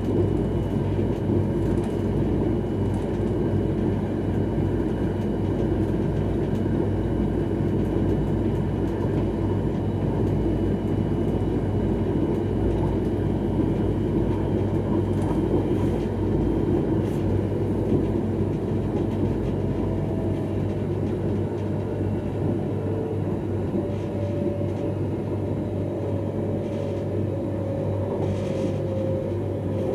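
X31 electric multiple unit running at speed: a steady rumble of wheels on rail and running gear heard from inside the cab. A steady tone joins in during the last third.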